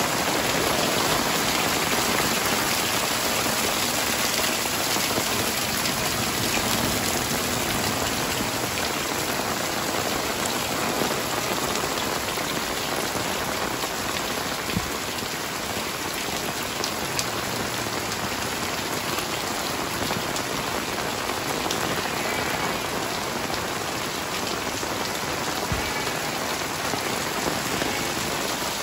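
Heavy rain pouring steadily, a dense even hiss of rain striking walls, plants and the ground, with a few sharp drip taps standing out now and then.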